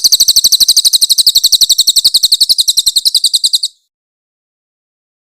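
Crested jay (cililin) giving its harsh, rapid rattling call: a fast, even string of high, piercing notes, well over ten a second, that cuts off abruptly about three and a half seconds in.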